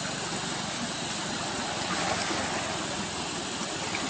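A small engine running steadily, with a constant hiss over it.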